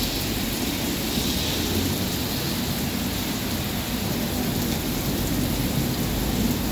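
Heavy rain pouring onto flooded asphalt and parked cars: a steady, dense hiss with a low rumble beneath it.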